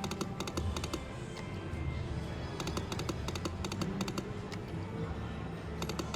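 Best Bet Lightning Link video slot machine playing its spin sounds: runs of rapid clicking ticks as the reels spin and stop, over the game's steady electronic music.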